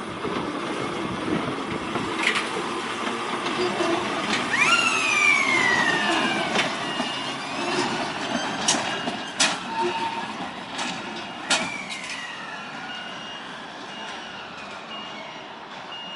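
Volk's Electric Railway car running along the track with a steady rumble. About four seconds in, a squeal falls in pitch, followed by a few sharp clicks and a faint, regular high beeping in the second half.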